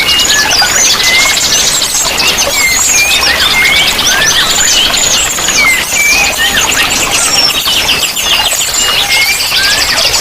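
Several small songbirds chirping and twittering at once: many short rising and falling whistled notes and fast trills overlapping without pause, over a steady rush of running water.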